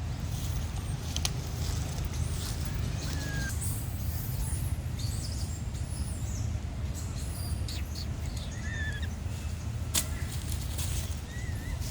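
Outdoor ambience with a steady low rumble, short high animal chirps and squeaks scattered through it, and two sharp clicks, one near the start and one near the end.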